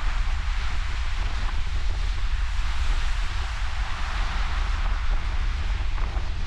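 Steady ocean surf washing in, with wind rumbling on the microphone.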